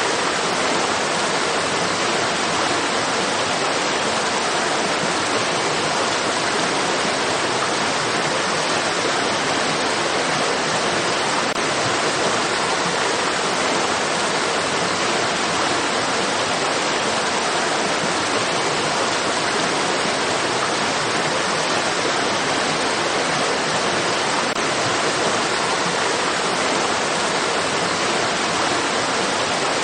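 Flowing stream water rushing steadily, an even, unbroken hiss with no change in level.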